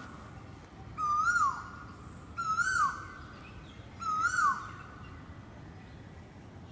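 A bird calling: a short whistled note that rises and then drops, three times about a second and a half apart.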